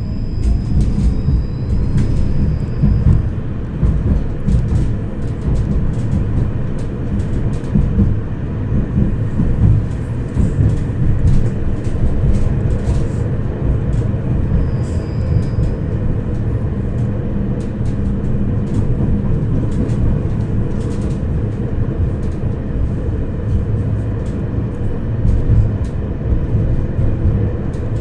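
Tram running between stops, heard from inside the car: a steady low rumble of wheels on rails, with scattered clicks and knocks.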